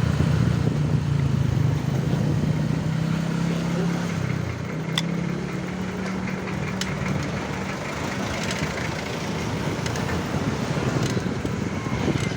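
Street traffic noise: a motor vehicle's engine hums steadily close by and fades out about halfway through, leaving road noise and a few sharp clicks.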